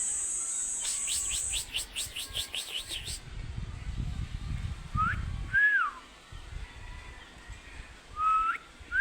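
A pet talking bird whistling: two pairs of short whistle notes that swoop up and down, about five seconds in and again near the end. Before them a steady high-pitched buzz carries a fast chirping trill, and both stop about three seconds in.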